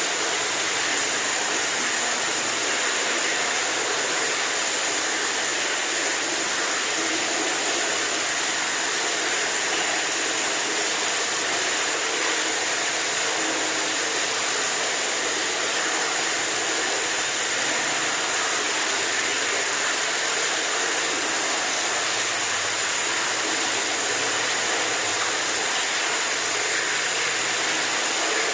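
Running water: a steady, even rushing with a hiss, unchanging throughout.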